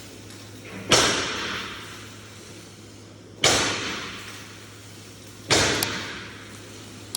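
Three heavy metal bangs, about two to two and a half seconds apart, each echoing away over a second or so in a large workshop, over a steady low hum. Typical of steel parts being struck or dropped in a truck-bed fabrication shop.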